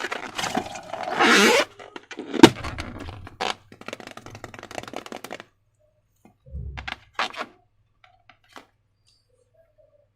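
Slime and balloons being handled: a stretch of squishing and rustling, then a sharp crack about two and a half seconds in, the loudest sound. Scattered crackles follow, then a soft thump and a few clicks.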